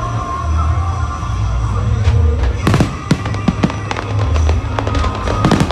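Aerial fireworks bursting: a steady low rumble of booms, then a quick run of sharp crackling pops starting about halfway through.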